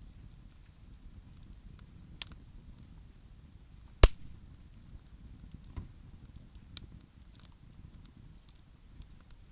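Wood campfire burning, with a low steady rumble. One loud sharp pop from the burning wood comes about four seconds in, and smaller crackles come near two and seven seconds.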